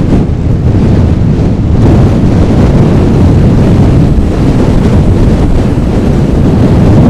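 Loud, steady wind rush buffeting the microphone of a bicycle rider coasting fast downhill, a low rumbling roar with no break.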